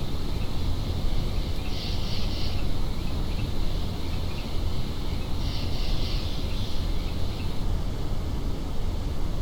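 Recorded ambient soundscape from a relaxation-sound app: a steady low rumble, with patches of high chirping about two seconds in and again around six seconds in.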